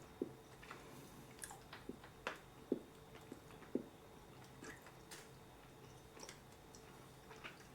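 A person chewing a piece of candy close to the microphone: soft, irregular wet mouth clicks and smacks.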